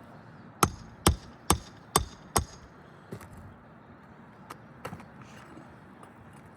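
Hammer striking five times in quick succession, about two blows a second, working out a roofing nail so a new shingle can be slid in. Two much lighter taps follow a couple of seconds later.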